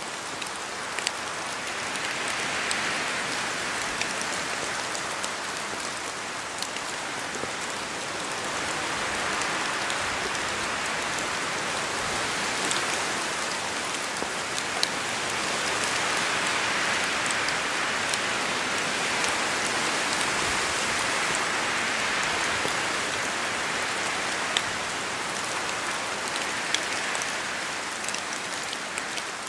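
Steady rain falling through forest trees, a dense hiss that swells and eases every few seconds as the wind gusts, with many single drops ticking sharply on leaves close by.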